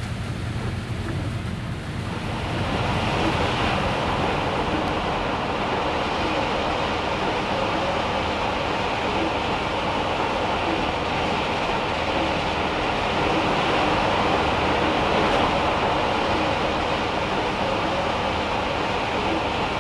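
Heavy rain drumming steadily on the van's metal roof, swelling louder about two seconds in and then holding.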